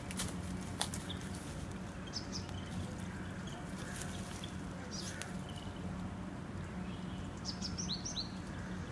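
Birds chirping in short, scattered calls, with a quick cluster of chirps near the end, over a steady low hum. Two sharp clicks in the first second are the loudest sounds.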